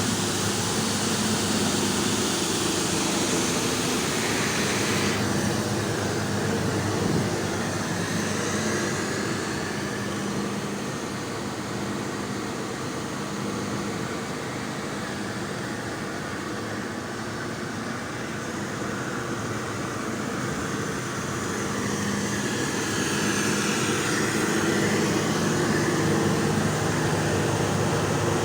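A 6-ton combi boiler running under test: a steady rushing noise with a low hum, easing slightly in the middle and building again toward the end.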